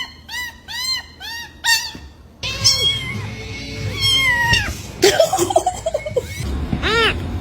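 A cat meowing: a quick run of short, high meows, about three a second, then a few longer drawn-out meows, and one more short meow near the end.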